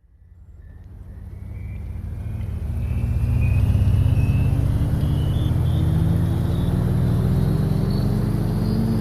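A vehicle engine fades in from silence and runs with a low rumble. Its pitch climbs slowly and steadily, with a faint whine rising along with it.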